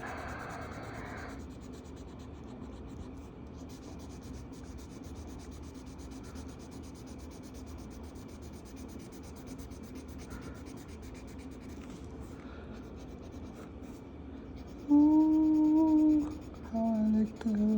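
Marker strokes rubbing and scratching on paper while coloring in a page, soft and continuous. Near the end a man hums two short steady notes.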